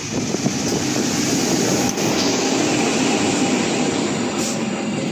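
A KAI CC 201 diesel-electric locomotive and its passenger coaches pass close by at speed. It is a loud, steady rumble of wheels on rail that starts abruptly as the locomotive arrives, with a few sharp clacks.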